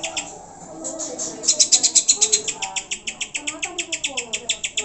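Greater green leafbird (cucak hijau) calling: a fast, even run of sharp repeated notes, about eight a second, which breaks off shortly after the start and resumes about a second and a half in. Lower wavering notes run underneath.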